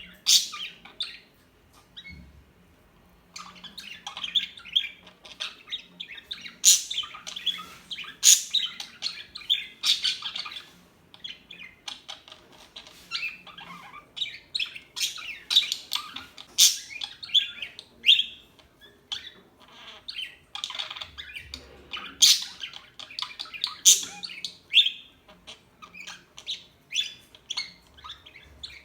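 Budgerigars chirping and chattering nonstop in rapid, overlapping high-pitched calls and squawks, with a brief pause about two seconds in.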